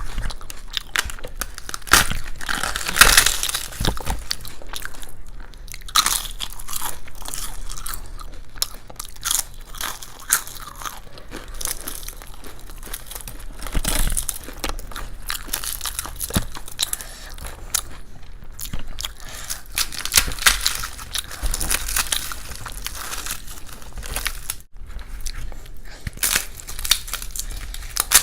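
A person chewing and crunching crisp food close to the microphone, with irregular loud crunches and wet chewing throughout.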